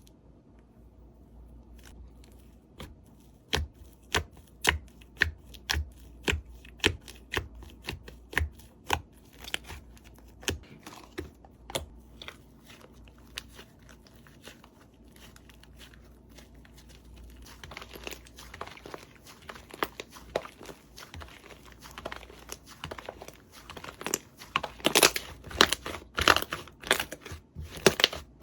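Slime being pressed and squished by hand, making a run of sharp pops about two a second, then denser crackling that grows loudest near the end.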